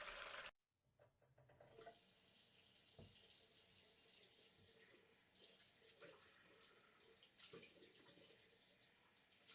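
A louder rush of water cuts off about half a second in. After a short gap, water from a tap starts running into a sink, faint, with small irregular splashes.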